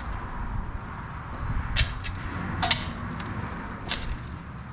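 Three sharp clinks about a second apart, over a low rumbling background noise.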